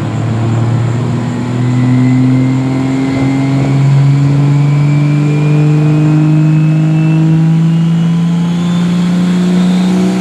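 Dodge diesel pickup pulling a sled under full load, its engine note climbing slowly and steadily, with a faint high whine rising along with it.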